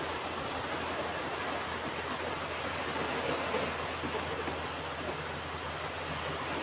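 Ocean surf washing onto a beach: a steady rush of waves with no single distinct crash.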